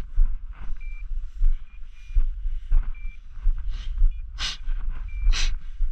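Short, high electronic beeps from hunting dogs' beeper collars, sounding at uneven intervals about once a second: point-mode beeping, the signal that a dog is standing on point. Under them is a constant low wind rumble, and two loud brushy rustles come about four and five seconds in.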